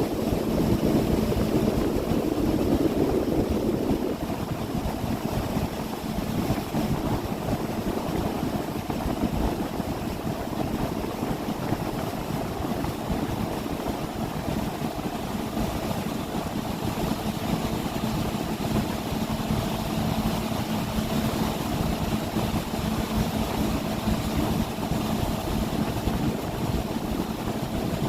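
A 30-foot boat's engine running steadily, a constant hum with a steady low tone, slightly louder for the first few seconds.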